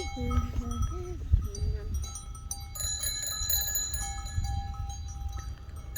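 Several bells among the grazing sheep clinking and ringing, their clear tones overlapping and lingering, thickest in the second half. A low voice sounds briefly in the first two seconds.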